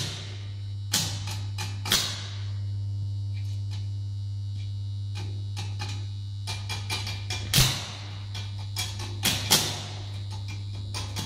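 Homemade AC arc welder made from three microwave-oven transformers humming steadily at mains frequency, while the electrode arc strikes and crackles in short, sharp bursts, about a second in, around two seconds, and in a cluster later on.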